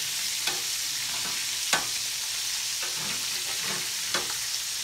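Breaded chicken gizzards frying in hot oil in a cast-iron skillet, a steady sizzle, while metal tongs turn them over. Several sharp clicks of the tongs come on top, the loudest about two seconds in.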